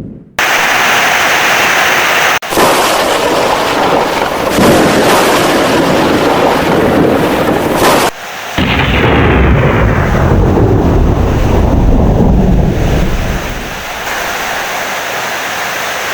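Heavy rain with rolling thunder. A long, deep rumble of thunder builds about halfway through and dies away near the end, and the sound cuts out abruptly for a moment a few times.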